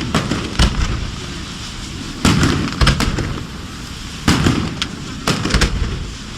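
Aerial fireworks shells bursting overhead: a string of sharp bangs every second or two, with a steady hiss and crackle between them.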